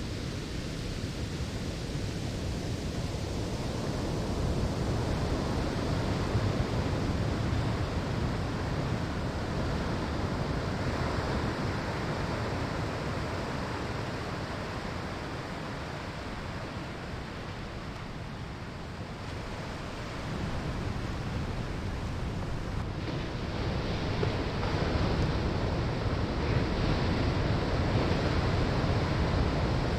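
Ocean waves breaking and washing up on a sandy shore: a continuous rush of surf that swells and eases in slow surges.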